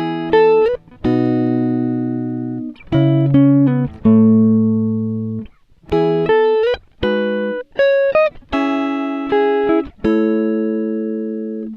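Instrumental background music: a plucked, guitar-like melody of single notes and held chords, each starting sharply and fading away, with a few short slides between notes.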